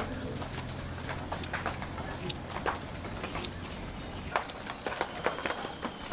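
Insect, cricket-like, trilling steadily at a high pitch, stopping about four seconds in, with scattered light clicks and taps.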